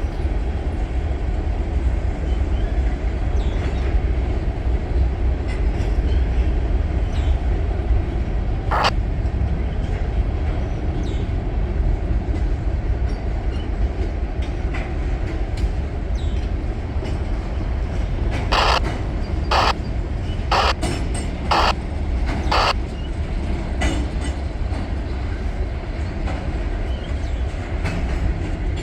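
Norfolk Southern freight train cars rolling past with a steady low rumble. One sharp metallic sound rings out about a third of the way in, and a run of five more, about a second apart, comes about two-thirds of the way through.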